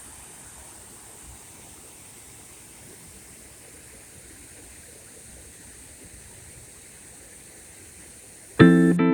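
Steady rush of water from a landscaped waterfall. About eight and a half seconds in, electric guitar music cuts in loudly.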